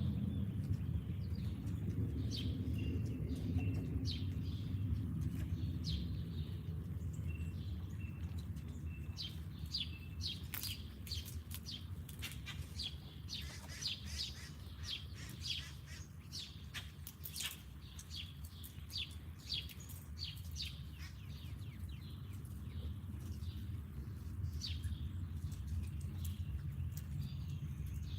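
Wild songbirds chirping and calling around a backyard feeder: many short, quick chirps, busiest in the middle, over a steady low rumble.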